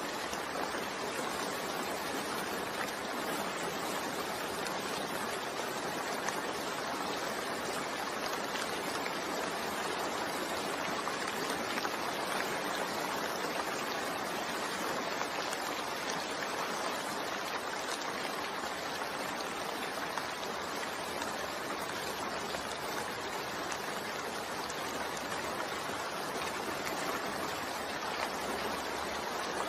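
Steady rain falling, a continuous even hiss of rainfall with no distinct drops or breaks.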